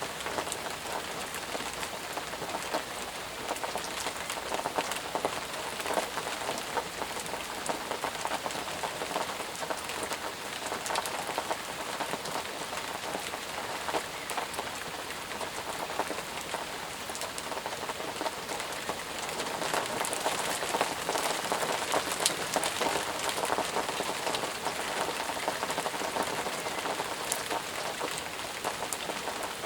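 Steady, heavy rain falling, a dense hiss of many individual drops pattering on surfaces, swelling a little in the second half.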